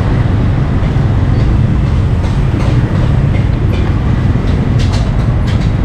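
Steady low rumble of street traffic and engines, with a few faint clicks near the end.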